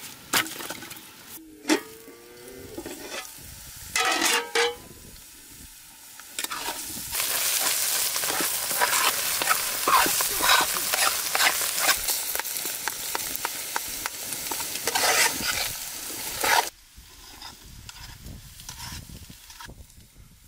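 A metal spoon scraping and stirring a chopped food mixture frying in a metal pot over a campfire, with steady sizzling. A few sharp metal clanks come first. The sizzling starts about a third of the way in and cuts off sharply about three quarters through.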